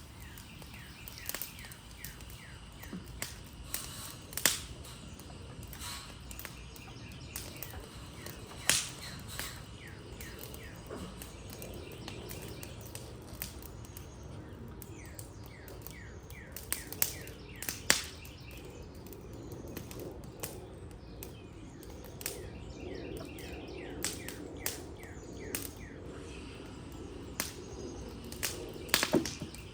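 Wood fire of a burning Adirondack chair crackling, with irregular sharp pops and snaps, the loudest about four, nine, eighteen and twenty-nine seconds in. Birds chirp in repeated quick trills behind it.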